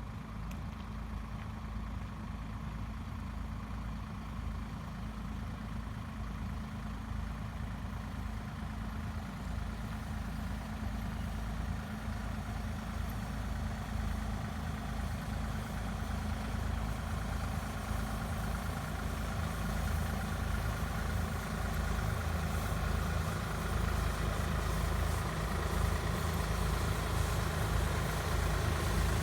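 Engine of a frost-protection fogging machine running steadily, growing gradually louder.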